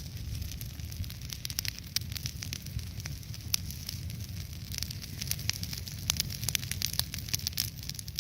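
Bonfire burning with a steady crackle and many sharp pops, which come more often in the second half.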